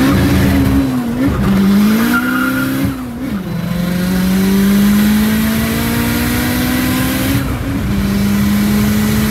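Turbocharged four-cylinder engine of a modified Suzuki Swift Sport pulling hard through the gears. Its pitch climbs steadily in each gear and drops sharply at upshifts about three and seven and a half seconds in.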